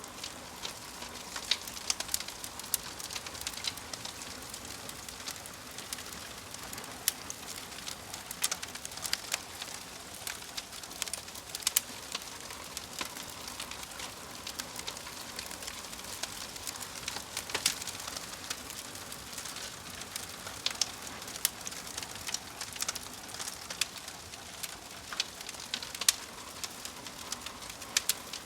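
Wood fire crackling: frequent, irregular sharp pops and snaps over a soft, steady hiss.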